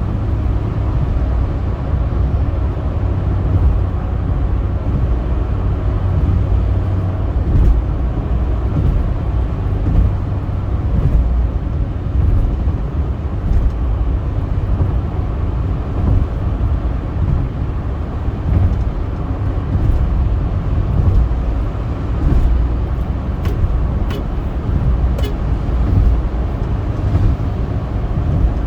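A car driving on a highway: a steady, low road and engine rumble with a few faint clicks.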